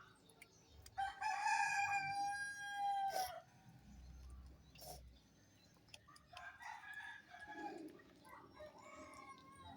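Rooster crowing once, a long loud call held for about two seconds that drops at the end, followed near the end by softer, shorter calls.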